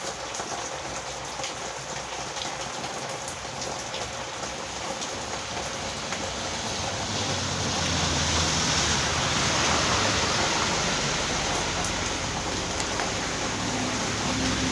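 Heavy rain pouring steadily, growing louder from about halfway through, with a low hum coming in underneath.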